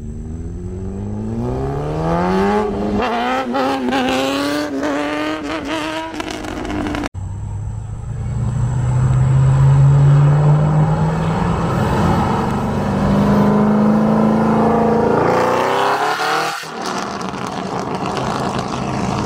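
High-performance car engines accelerating hard, their note climbing in pitch over the first few seconds. It cuts off abruptly about seven seconds in, and another engine pulls with a slower rise in pitch.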